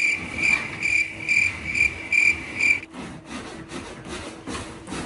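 Rhythmic high-pitched squeaking, about two squeaks a second, from a latex balloon being sat on and bounced in a wooden rocking chair; the squeaks stop abruptly about three seconds in, leaving softer rubbing and creaking.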